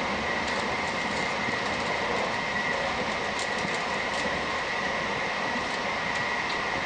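Steady running noise heard inside a passenger train coach moving at speed, with a constant high whine and a few faint ticks.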